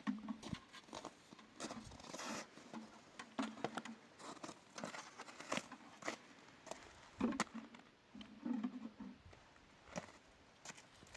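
A run of irregular light knocks and clicks, several a second and some sharper than others, with a few brief low hums in between.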